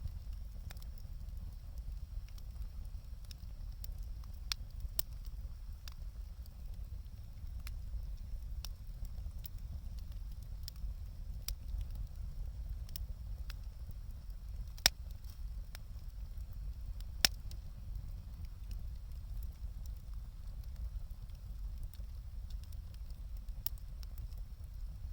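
Wood fire burning, with sparse crackles and snaps over a steady low rumble. Two louder pops come about 15 and 17 seconds in.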